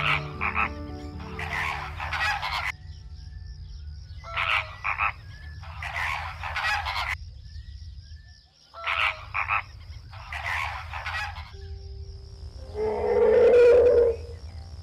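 An animal's call repeated three times, about four and a half seconds apart: each is two short clicks followed by a raspy burst lasting about a second. Near the end comes a louder, lower-pitched call.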